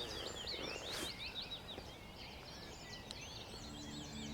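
Small birds chirping and singing in woodland, a dense run of quick, high, repeated chirps. Near the end a faint, steady low hum comes in underneath.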